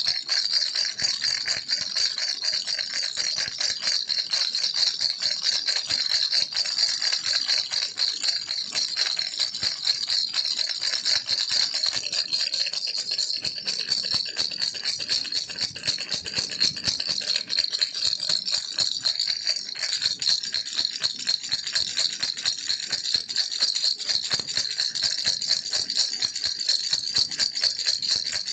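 Baby rattle toy shaken without pause: a dense, steady stream of rapid clicking from the loose pieces inside.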